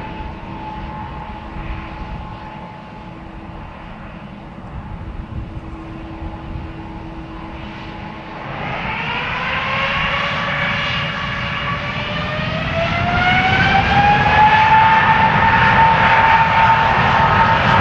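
Jet airliner's engines: a steady low rumble with a faint whine, then about halfway a rising whine as the engines spool up for takeoff, growing louder and settling into a steady high whine.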